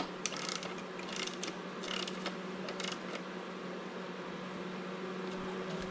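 A few short clicks and rattles of hand tools working on metal parts in the first three seconds, over a steady hum.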